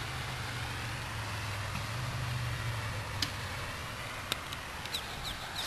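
Steady outdoor background hiss with a low hum that fades after about three seconds. In the second half come a few light, sharp clicks and short high ticks.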